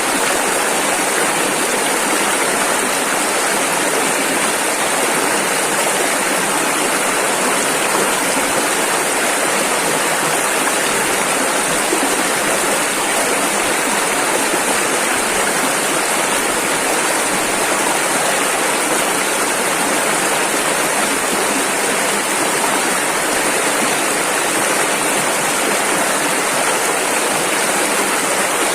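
Rushing river water, a steady, unbroken torrent of rapids.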